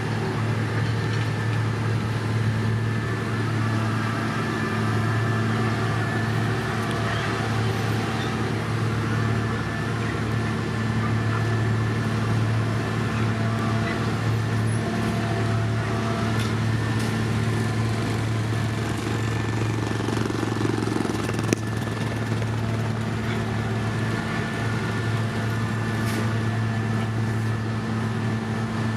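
Heavy diesel engine of road-construction machinery running steadily with a constant low hum, and a single sharp click about three-quarters of the way through.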